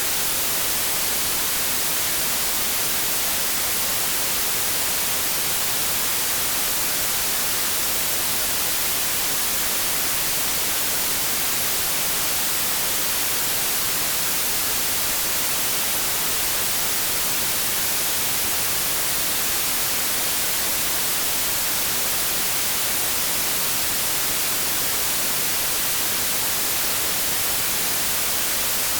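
Continuous synthetic white noise: a steady, unchanging hiss, brightest in the high range.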